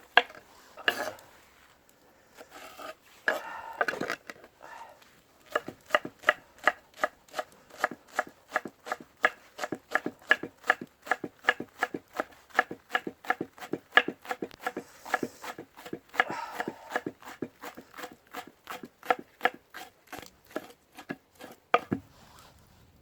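Kitchen knife chopping frozen green onions on a cutting board: a few scattered knocks, then a long run of quick, even strokes, about three a second, that stops shortly before the end.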